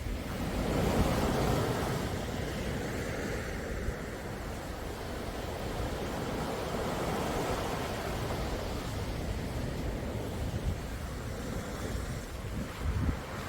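Calm sea surf: waves washing in as a continuous wash that swells about a second in, with a low rumble of wind on the microphone.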